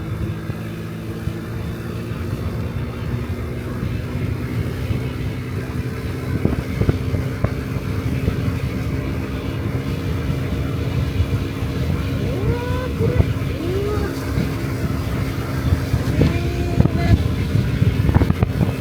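Honda Dio Cesta AF68 50cc single-cylinder four-stroke scooter engine running steadily while riding, with a constant low rumble of wind and road noise.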